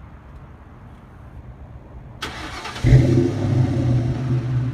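2003 Ford Mustang GT's 4.6-litre V8 being started: a brief spell of cranking about two seconds in, then the engine catches just under three seconds in and settles into a steady, loud idle.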